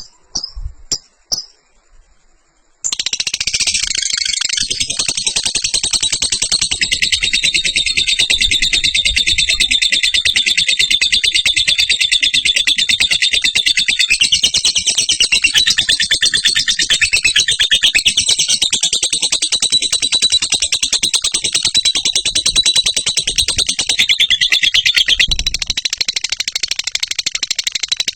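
Lovebird singing its long 'ngekek' song: a few single chirps, then about three seconds in a continuous, very rapid, high-pitched chattering trill with no breaks.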